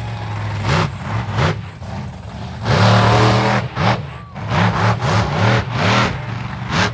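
Monster truck engine revving in a series of short throttle blips over a steady running note, with one longer, louder rev held for about a second near the middle.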